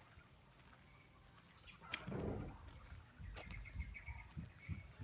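Rural outdoor ambience: faint short bird chirps, with low rumbles and thuds about two seconds in and again near the end.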